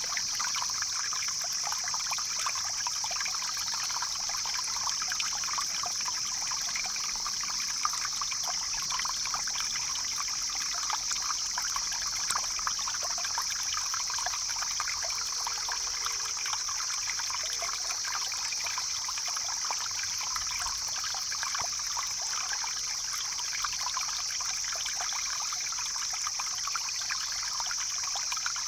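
A stream flowing and trickling steadily, with a steady high-pitched hiss over the water sound.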